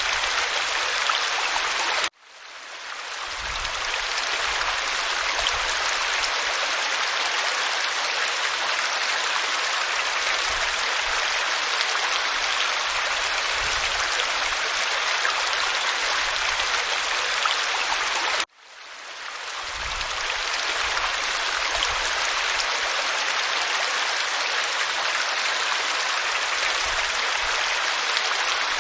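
Waterfall pouring onto rock: a steady, even rush of falling water. Twice, about two seconds in and again about two-thirds of the way through, it cuts out suddenly and swells back up over a second or so.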